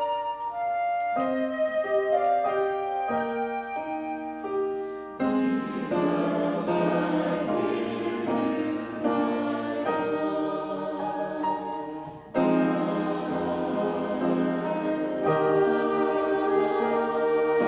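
Church choir singing held chords in harmony with accompaniment, the chords changing step by step; a fuller passage comes in about five seconds in, and after a brief dip the singing enters again about twelve seconds in.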